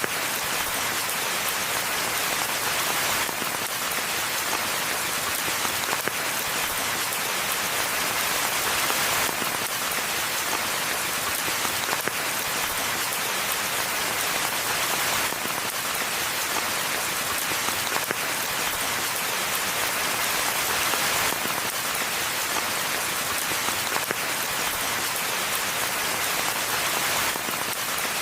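Steady rain falling on a forest pathway and foliage: a dense, even hiss of drops with small individual patters. The sound swells and eases slightly every few seconds.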